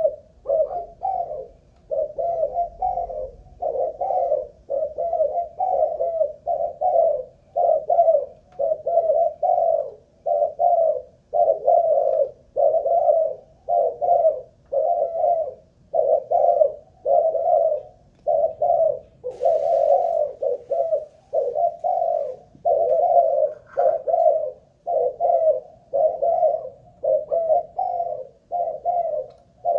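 Malaysian-strain spotted dove (cu gáy), a decoy bird, cooing on and on in a steady run of short coos about one and a half a second. Its song keeps going without a break, the staying power wanted in a decoy.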